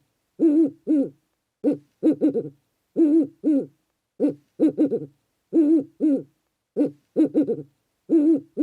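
Short hooting animal calls, each with a wavering pitch, repeated in quick groups of one to three with brief silent gaps between groups.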